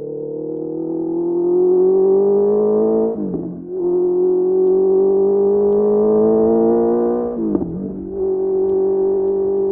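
Honda CBR650R inline-four with a Mivv MK3 exhaust accelerating through the gears: the engine note rises steadily, dips sharply at an upshift about three seconds in, climbs again and shifts up once more near the end before settling into a steady pull.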